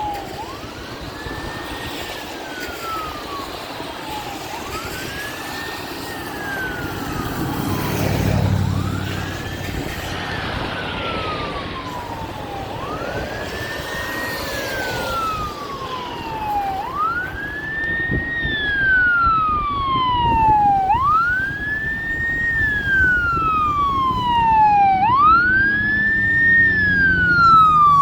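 Fire engine siren wailing, each cycle rising quickly and falling more slowly, about one every four seconds. It grows steadily louder as the truck approaches.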